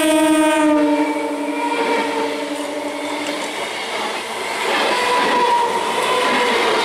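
Electric multiple unit local train sounding its horn as it passes. The horn's pitch drops about a second in as the cab goes by, then fades out. The coaches roll past with a steady rumble of wheels on rail that grows louder near the end.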